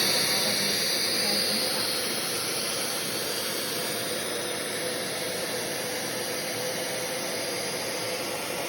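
Mondial vacuum cleaner running at full suction while picking up ground coffee from the floor: a steady rushing motor noise, with a high whine that fades over the first couple of seconds.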